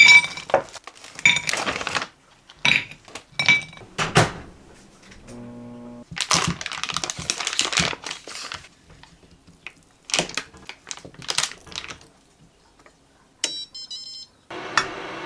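Household clatter of objects knocking and clicking, with a brief hum about five seconds in. Near the end an appliance gives a quick run of high electronic beeps, then a steady whooshing starts up suddenly, like a fan running.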